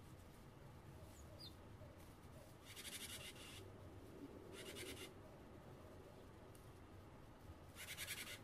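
Small tits at a lard feeder giving three short harsh, rattling churr calls, with a few faint thin call notes between them.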